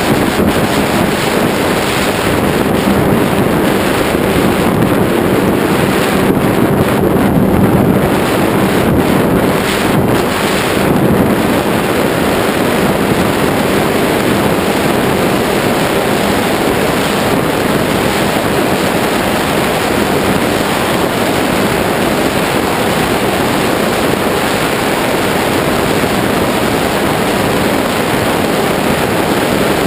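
Heavy, steady wind rush on the GoPro's microphone as the Ritewing Zephyr II flying wing flies in strong wind, with a faint steady hum underneath from its electric motor and propeller.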